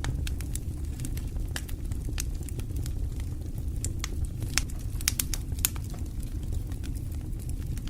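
Wood fire burning in a fireplace: irregular crackles and sharp pops, several a second, over a steady low rush of flame, with a cluster of louder pops midway.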